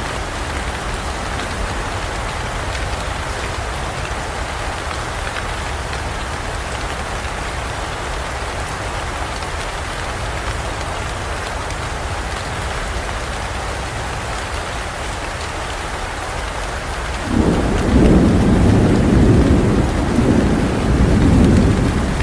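Steady heavy rain falling, with a roll of thunder that breaks in suddenly near the end and rumbles low for several seconds.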